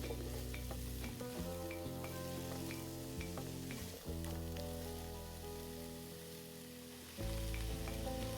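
Chopped onion, garlic, carrots and celery sizzling as they sauté in olive oil in a pot, with some stirring. Background music with sustained low chords plays throughout.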